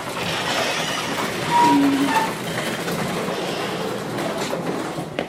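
Garage door opener running, a steady mechanical rumble as the door travels, with a short squeak about two seconds in.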